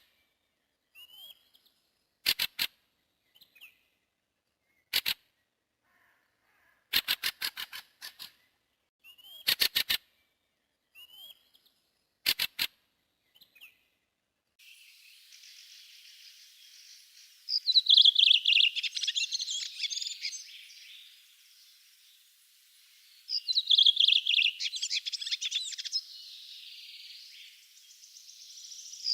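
Woodland songbirds calling and singing. In the first half come short chirps and groups of sharp clicking notes. About halfway the recording changes to a faint hiss, over which a bird sings loud, rapid song phrases every few seconds.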